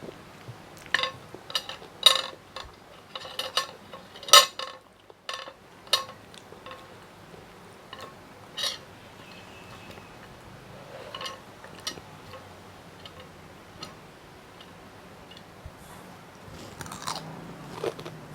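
Close-miked chewing of food: a dense run of crisp crunches and bites over the first six seconds, then sparser chewing clicks.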